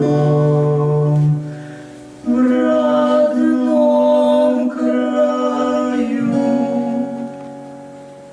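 Music: a song sung over instrumental accompaniment, with long held notes in three phrases. The last note dies away slowly near the end.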